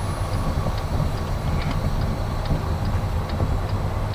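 Semi-truck diesel engine idling steadily, heard from inside the cab, with faint regular ticking over it.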